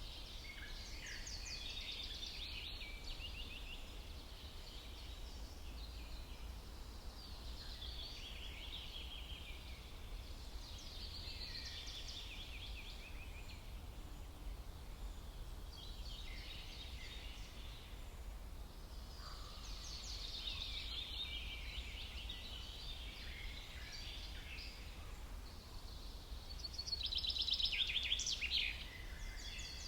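Songbirds singing in the forest, with a high trilled phrase repeated every few seconds. The loudest phrase comes near the end. A steady low rumble runs underneath.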